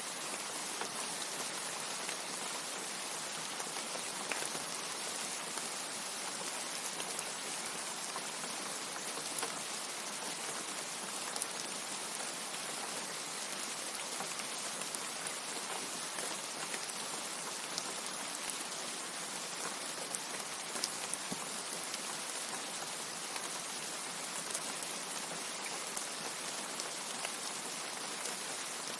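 Steady rain with scattered individual drops ticking sharply on a surface. There is no thunder.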